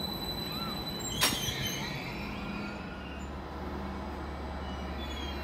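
Greater Anglia Class 755 bi-mode train at the platform: a steady running noise with faint short squeals, one sharp clunk about a second in, and a low steady hum that sets in about three seconds in.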